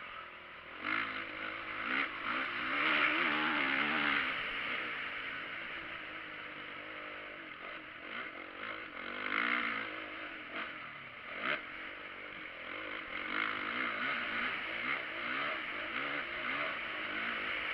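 Motocross motorcycle engines revving up and down, the pitch rising and falling with the throttle, loudest a few seconds in and again around the middle, with a few sharp clicks.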